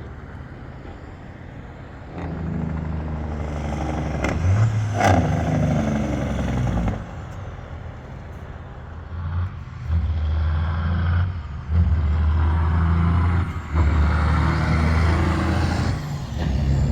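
Semi truck's diesel engine pulling and working up through the gears, the engine note dropping away briefly at each shift, several times, with a short hiss about five seconds in.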